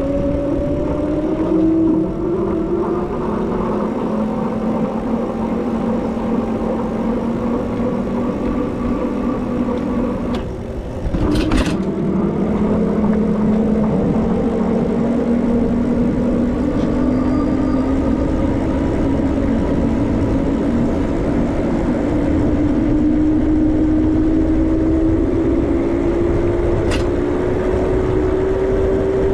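Electric bike motor whining while riding, its pitch slowly rising and falling with speed, over a steady rushing noise. There is a sharp double click about eleven seconds in and a single click near the end.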